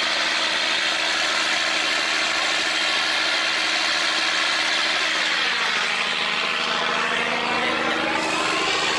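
A boat's diesel engine running steadily, its hum even throughout, over a steady rushing noise.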